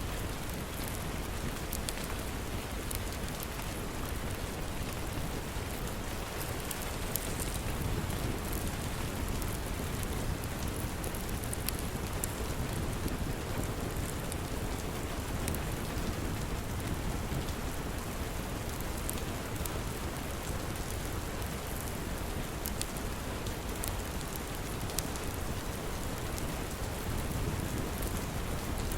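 Steady rain falling, with a low rumble underneath and scattered sharp clicks.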